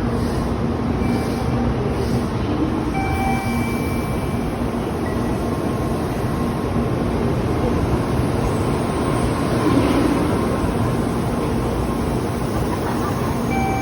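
Steady rumbling noise of an N700-series Tokaido Shinkansen train, with faint thin tones coming and going over it and a slight swell about ten seconds in.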